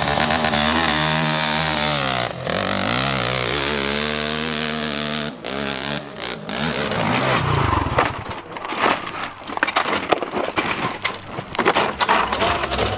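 Dirt bike engine revving hard, its pitch rising and falling. About five seconds in it breaks off, and from about eight seconds on it gives way to a rapid, irregular crackle of sharp knocks and pops.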